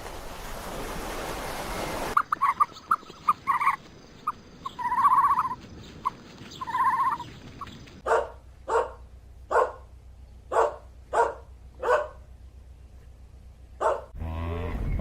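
A steady rushing noise cuts off about two seconds in, followed by short high-pitched yips, then a dog barking about eight times at an even pace.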